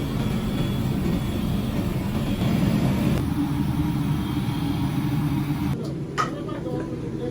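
A machine or motor running steadily with a low rumble. About six seconds in the sound changes abruptly and a few sharp metallic clinks follow.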